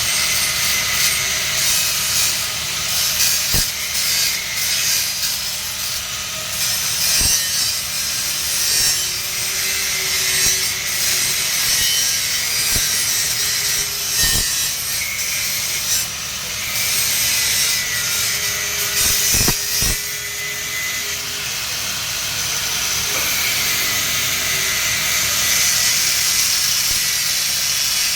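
Electric arc welding on steel pipe: a steady crackling hiss from the arc, with a few sharp pops.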